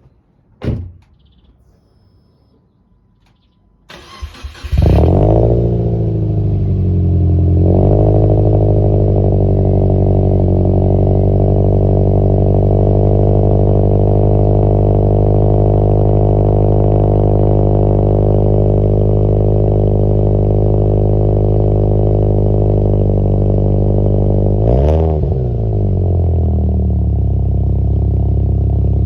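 A sharp click just under a second in. About four seconds in, a Subaru 1.5R's flat-four engine, fitted with a custom 2.5-inch exhaust with original cats and one muffler, cranks briefly, catches and flares. It then settles into a steady idle, with a brief dip and change in its note near the end.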